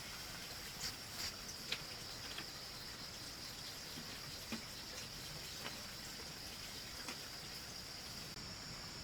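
A steady high-pitched insect chorus, with a few scattered sharp ticks and knocks, most of them in the first two seconds.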